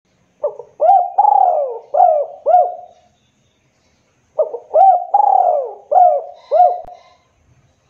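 Spotted dove cooing: two phrases of several rounded coo notes each, the second phrase starting about four and a half seconds in after a short pause.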